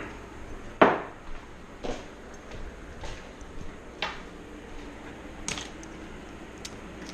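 A handful of separate sharp metallic clinks and clatters as small metal parts and hand tools are handled, the loudest about a second in.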